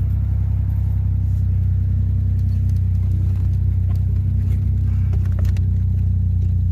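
Suzuki Jimny running steadily, a low, even engine and drivetrain drone.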